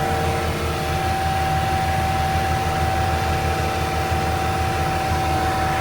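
Venieri 10.33C backhoe loader's four-cylinder Deutz diesel running steadily at full revs while driving a HitchDoc snowblower through light snow, a constant high whine over a low, pulsing engine drone.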